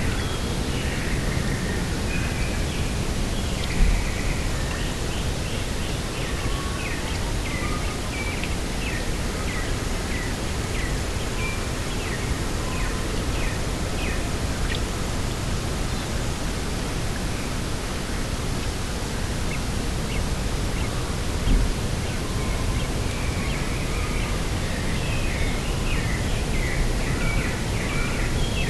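Steady outdoor wind noise over a grassy coastal field, with small birds chirping and trilling throughout. Two brief low thumps, about four seconds in and near two-thirds through.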